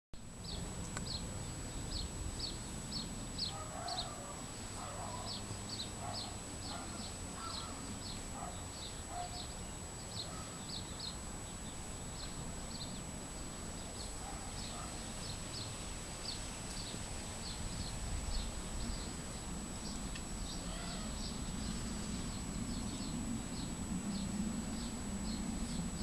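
Birds chirping: a steady run of short high chirps, two or three a second, with some lower calls in the first half, over a low rumble and a faint steady high whine.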